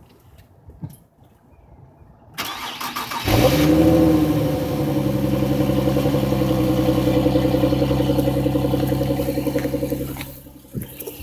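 Infiniti Q50 cold start: the starter cranks briefly about two seconds in, the engine catches and flares up in revs, then settles into a steady idle. The sound drops away near the end.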